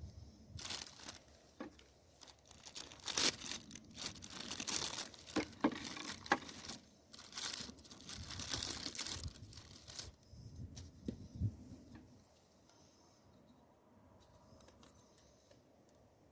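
Crinkling, tearing and rustling as something is handled, in uneven bursts with a few sharp clicks, dying down to faint scattered rustles after about ten seconds.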